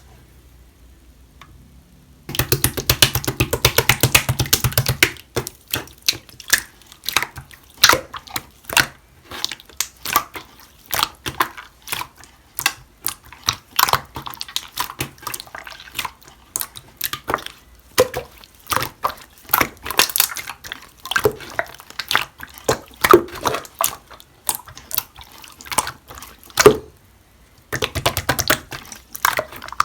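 White, chewy 'pondang' slime being squished and poked by hand, making wet clicks and pops. After about two seconds of quiet comes a quick run of crackling clicks, then irregular single pops and squelches, with another quick run of clicks near the end.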